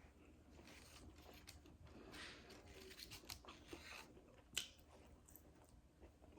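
Faint chewing and mouth clicks from someone eating a spicy chicken sandwich, with scattered small crunches and a sharper click about four and a half seconds in.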